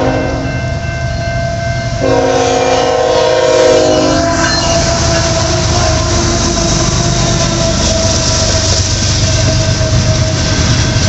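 Diesel freight locomotive's multi-chime air horn: a short blast at the start, then a longer one from about two seconds in. After that the train runs past with a loud, steady rumble of wheels on the rails.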